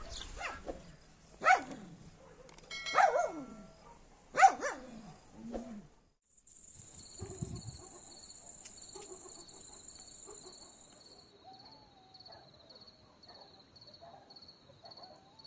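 A dog barking about five times in the first six seconds, each bark falling in pitch. After a sudden break, a high insect drone runs for about five seconds, and crickets chirp in an even pulse to the end, with faint bird chirps.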